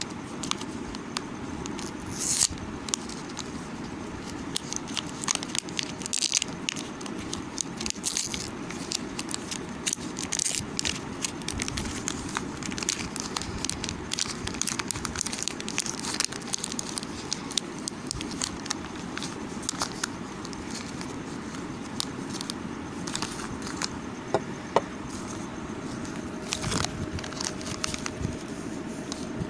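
Irregular crackling and scraping from bars of Lux soap being handled and worked by hand, over a steady low background rumble.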